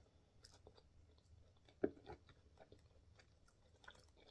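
Faint, close-miked chewing of a mouthful of beef burger in a soft bun: soft wet mouth clicks and smacks, with two louder smacks around two seconds in.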